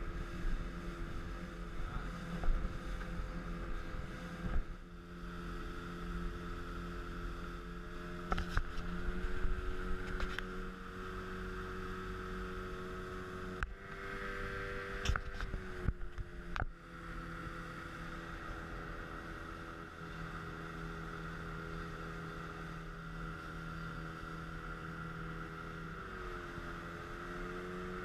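Speedboat engine running steadily under way, its pitch dipping briefly near the end, with a few short knocks.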